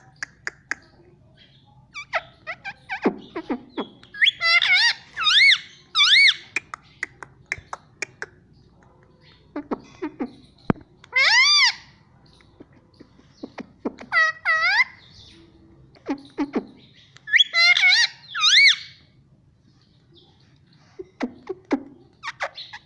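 Indian ringneck parrot calling: short, high, arching squawks in clusters of two or three, a few seconds apart, with scattered sharp clicks between them.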